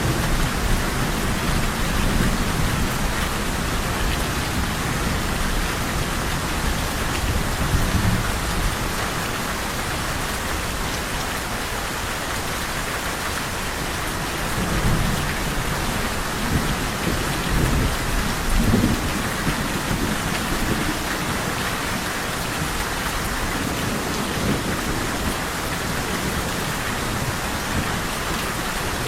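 Steady heavy rain hissing, with low rolls of thunder swelling up several times, about half a minute apart in places.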